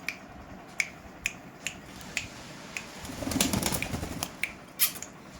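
A run of sharp clicks and taps from Indian ringneck parrots, about two a second, with a brief rustle a little past the middle.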